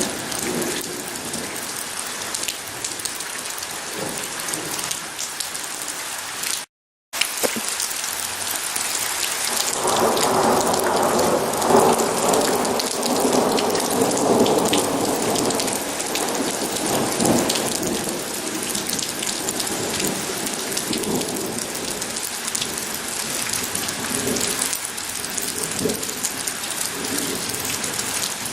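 Steady heavy rain falling, with a long roll of thunder that swells in about ten seconds in and fades over the next several seconds. The sound cuts out for a split second about a quarter of the way through.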